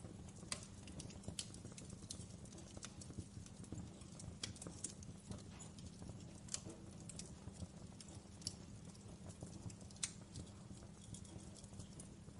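Wood fire in a fireplace crackling: irregular sharp pops and snaps, a few louder ones, over a steady low rumble of the burning.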